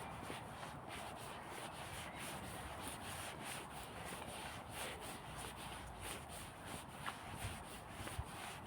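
Footsteps on a woodland path, soft scuffs at a walking pace of about two steps a second.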